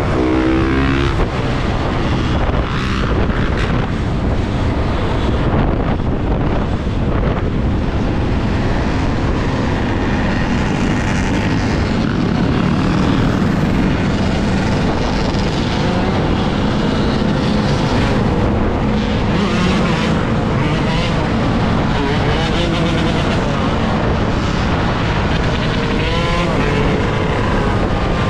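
Wind rushing over an action camera's microphone on a moving electric dirt bike, a loud steady roar with traffic around it. A few brief whines rise and fall near the start and again near the end.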